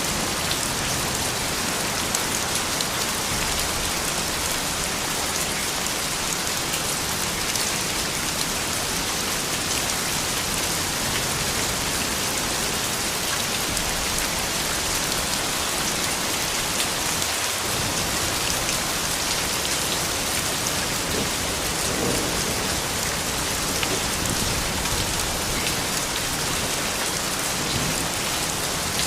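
Steady soft rain falling, an even hiss with a fine patter of individual drops.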